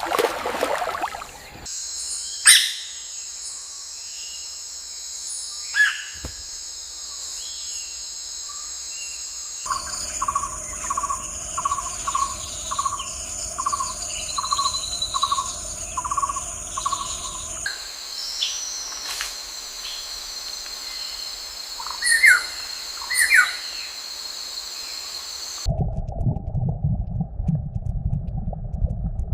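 Wild birds calling over a steady, high insect drone, with short chirps scattered through it. In the middle there is a run of about a dozen evenly spaced calls, a little under one a second. Near the end the sound switches abruptly to a low rumbling noise.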